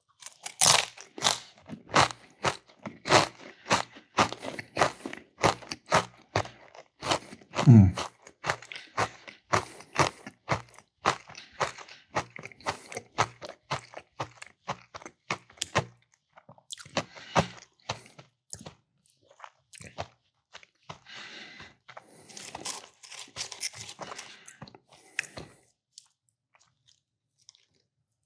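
Close-up chewing of crisp Cheez-It crackers: sharp crunches about twice a second, easing into softer chewing over the second half. About eight seconds in there is a short low hum from the eater's voice.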